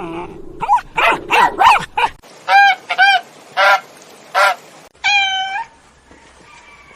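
Geese honking: a quick irregular run of calls, then four short separate honks, and one longer steady-pitched call about five seconds in.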